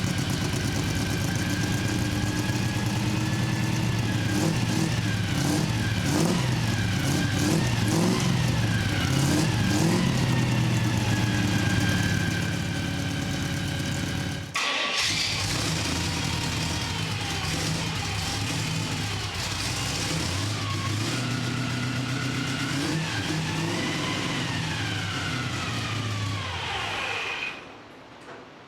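1965 Chevy C10's carbureted 327 small-block V8 idling and being revved, heard from the back at the exhaust, its pitch rising and falling with the throttle. There is a brief break about halfway through, and near the end the revs fall away and the sound drops.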